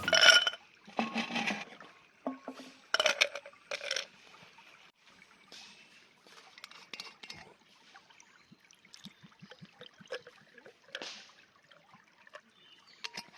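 Glass clinking a few times, then liquid being poured and trickling, with small scattered clicks, as when a drink is mixed over ice.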